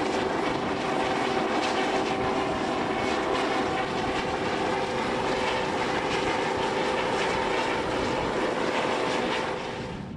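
Aircraft engine noise: a steady drone with a few held tones over a rushing noise, which drops away abruptly near the end.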